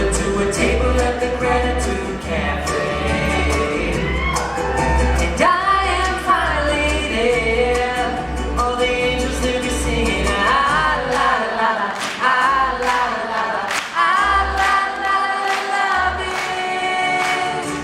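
Live band music with several voices singing together over percussion and a bass line. About eleven seconds in, the bass largely drops away, leaving mostly voices and percussion.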